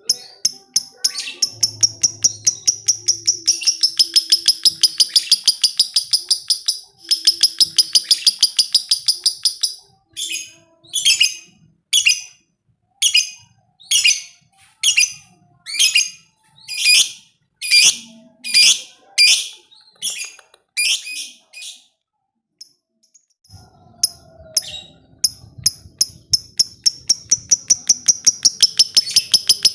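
Lovebird 'ngekek' chatter: a fast run of high, sharp chirps repeated many times a second. It slows into separate chirps about one or two a second, breaks off briefly, then the fast chatter starts again near the end.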